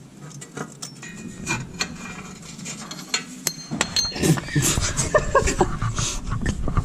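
Sharp metallic clinks and knocks of tools working on a car's exhaust pipe as it is pushed and bent away from the gearbox mount it was hitting. The knocking grows louder and busier about halfway through.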